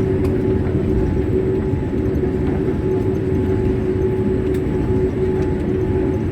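Cabin noise inside a Boeing 787-8 Dreamliner during the landing: a steady low rumble with a constant droning hum.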